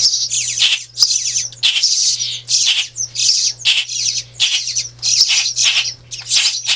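Nestling songbirds begging for food, a rapid run of high-pitched calls, about two or three a second, over a steady low hum.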